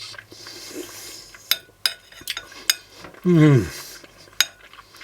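Cutlery clinking against a plate or bowl several times while eating. About three seconds in comes a loud, short vocal sound of delight that falls steeply in pitch, made while tasting the food.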